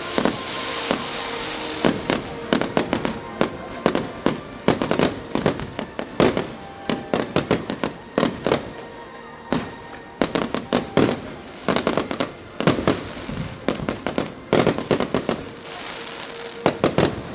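Fireworks display: volleys of sharp bangs in quick clusters with short pauses between, with crackling near the start.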